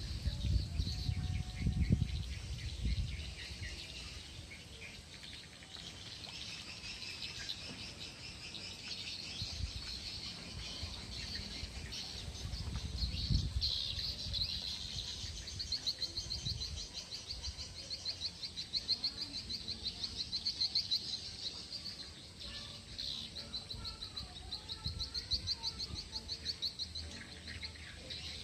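Outdoor ambience of birds chirping, turning into a fast, evenly repeated chirp in the second half. A few low rumbles from wind or handling on the microphone come near the start and about halfway through.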